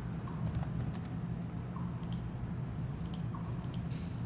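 Scattered clicks of a computer mouse, some in quick pairs, over a low steady hum.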